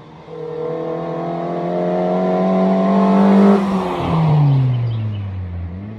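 Honda Fit Sport's 1.5 L VTEC four-cylinder engine revved up, its pitch and loudness climbing steadily for about three seconds. Then the throttle is released and the revs fall back toward idle.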